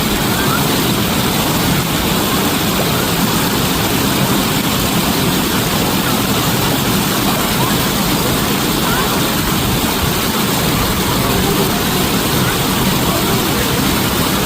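Steady, loud rush of falling water, an even splashing roar with no change.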